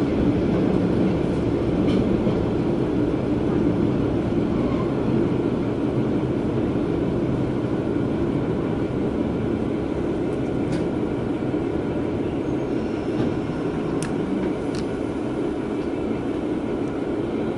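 Interior running noise of a single-car diesel railcar: a steady engine and wheel rumble, easing slightly in level, with a few faint short high squeaks late on.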